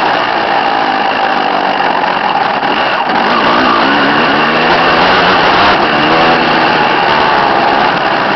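Dirt bike engine running loud and steady, its pitch slowly rising and falling as the throttle is worked.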